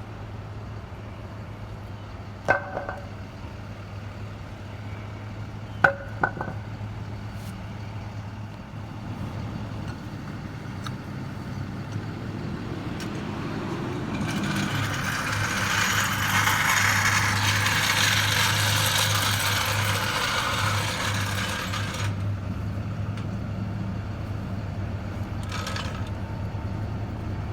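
Flatbed tow truck's engine running steadily under a tow operation. A few sharp metal clanks come early on, then a louder, hissing mechanical noise swells for about eight seconds in the middle and cuts off.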